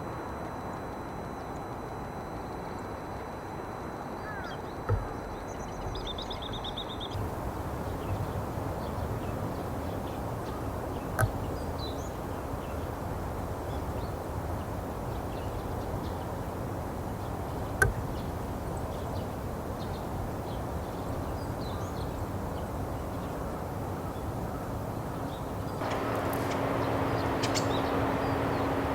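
Steady outdoor background noise, with a short run of faint high bird chirps about six seconds in and three sharp clicks scattered through.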